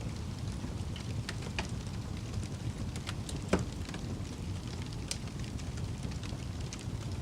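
Campfire burning with a steady low rumble and scattered crackles and pops, one sharper pop about three and a half seconds in.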